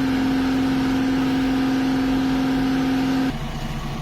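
A single loud steady note with overtones is held for about three and a half seconds and cuts off abruptly, over the rhythmic low running of a heavy vehicle engine.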